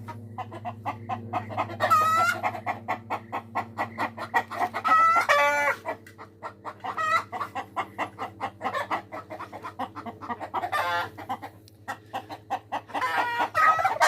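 Domestic hens cackling in a noisy chorus: fast runs of clucks, each ending in a long drawn-out squawk, over and over. This is the loud egg-laying cackle hens give after laying. A steady low hum runs underneath.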